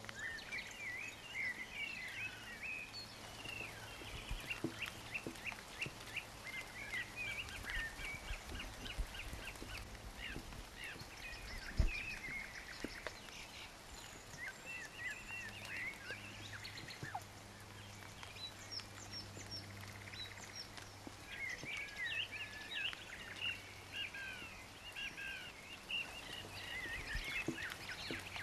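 Rain falling steadily, with birds chirping and singing throughout. A single sharp knock stands out about twelve seconds in.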